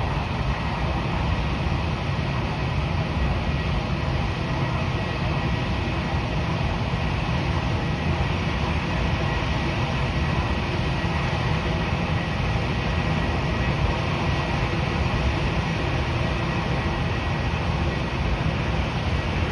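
Jet airliner engines running at a steady level: a constant rush with a faint thin whine above it, neither rising nor falling.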